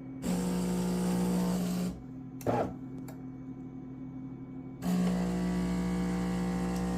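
Espresso machine's pump buzzing steadily: a short burst of about a second and a half, a pause with a single knock, then the pump starting again and running on while the coffee brews.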